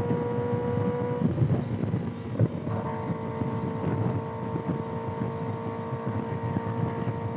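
Kawasaki ZX-6R's inline-four engine with a loud aftermarket exhaust, running at a steady cruise under way; its note drops out about a second in and comes back slightly higher a second and a half later. Wind buffets the microphone throughout.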